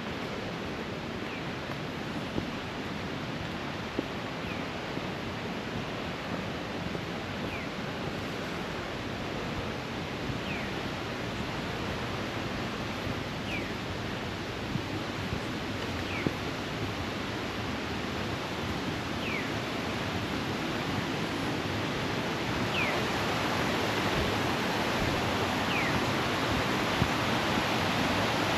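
Tischer Creek rushing over rocks, a steady noise that grows louder through the second half. A faint, short, high note sliding downward repeats about every three seconds.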